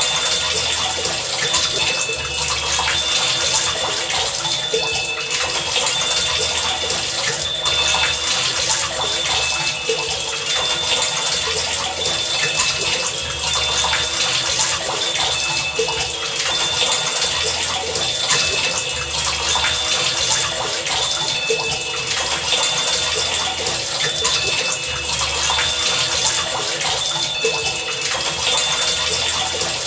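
Heavy rain falling steadily in a dense, even hiss. Through it runs a repeating pattern of short high tones and low thuds every second or two.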